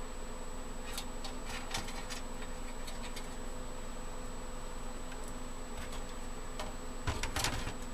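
Scattered light clicks and taps of cables and parts being handled inside a desktop computer case, with a denser cluster of knocks near the end, over a steady electrical hum and a faint high whine.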